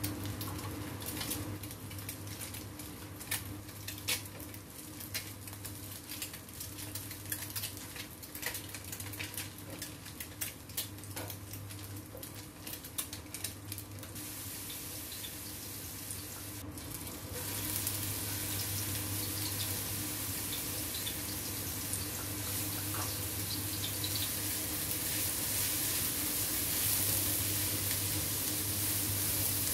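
Eggs frying in oil in a nonstick wok, with scattered sharp crackles and pops. From about 17 seconds in, a steady sizzle of garlic and shallots and then sliced pork being stir-fried in oil takes over and grows louder, over a low steady hum.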